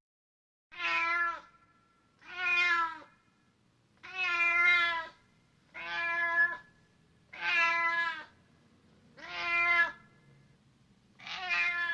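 A cat meowing repeatedly: seven separate meows, each under a second long, about one and a half seconds apart.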